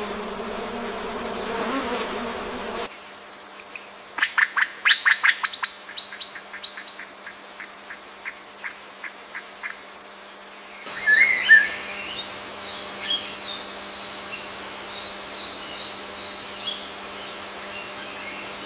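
Forest bird and insect ambience. A bird gives a run of sharp notes that slow down and fade away. Then a steady high insect drone sets in, with a few bird chirps over it.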